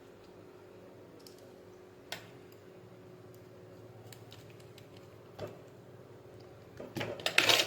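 Small tools and parts being handled on a workbench: a few separate clicks, then a quick cluster of louder clicks and clatter near the end, over a faint steady hum.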